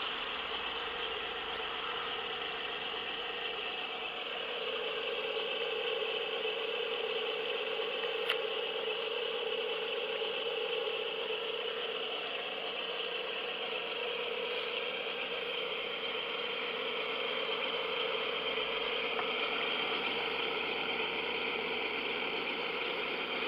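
Cooling water mixed with injected air spluttering steadily out of a radio-controlled model boat's exhaust outlet, an imitation of a running engine's wet exhaust. A single sharp click comes about eight seconds in.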